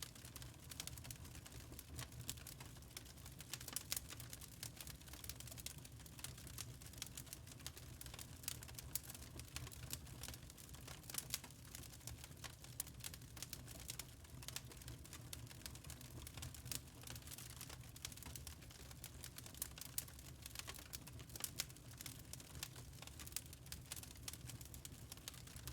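Wood fire in a fireplace crackling, with many small irregular snaps and pops over a low steady rumble.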